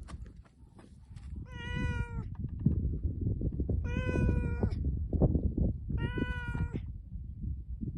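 A cat meowing three times, each call long and fairly level in pitch, about two seconds apart, over a steady low rumbling noise.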